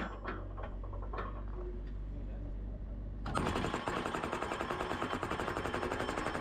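Excavator's low engine rumble, then about halfway through the hydraulic post driver attachment starts hammering a fence post, a loud run of rapid, even blows.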